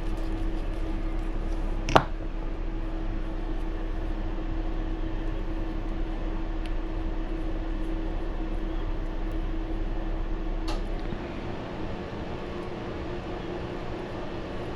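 Steady mechanical background hum with a constant tone in it, its deepest part dropping away about eleven seconds in. One sharp click about two seconds in and a fainter click near eleven seconds.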